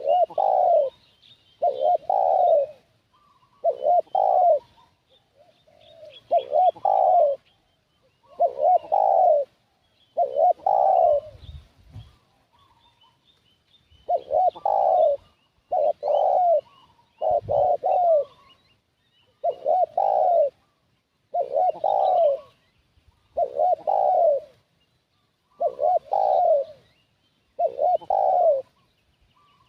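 Spotted dove cooing over and over, one coo phrase about every two seconds, with a pause of about three seconds near the middle. Faint high chirps of small birds sit behind it, and there are two brief dull low thumps.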